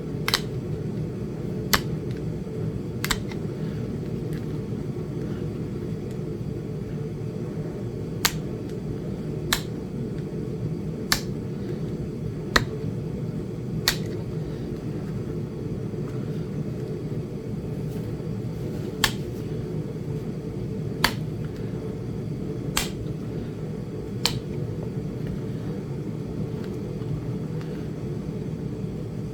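Sharp, clicking taps of knapping strikes on a small Flint Ridge chert biface being shaped by indirect percussion. There are about a dozen, mostly in runs of three or four about a second and a half apart, with pauses between the runs. A steady low hum runs underneath.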